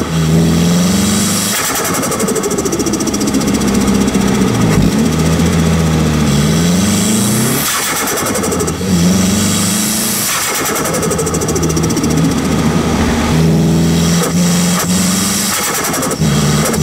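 Nissan Silvia S15's turbocharged SR20 four-cylinder, heard from a microphone at the T28 turbo, pulling hard with rising pitch, then dropping off with a fast turbo flutter as the throttle closes, several times over.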